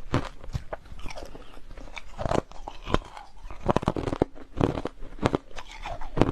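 Hard crushed ice being bitten and chewed close up: a quick, irregular run of sharp, brittle crunches.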